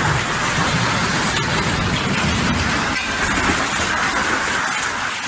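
Floodwater from a dam collapse rushing past in a steady, loud wash of noise with a low rumble beneath.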